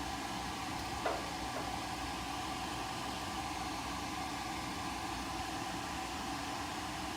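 Steady machine hum with one sharp click about a second in.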